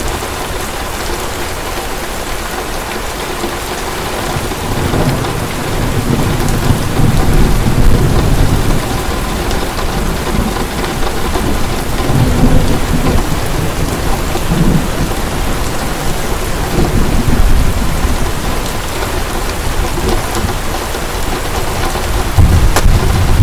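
Heavy rain falling steadily, with thunder rumbling low in several slow swells, the last and loudest near the end.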